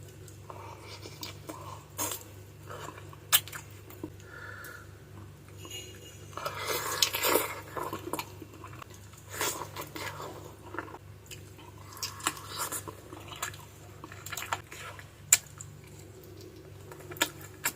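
Close-up mouth sounds of eating adobo chicken feet: wet chewing and biting with scattered sharp clicks, busiest about seven seconds in.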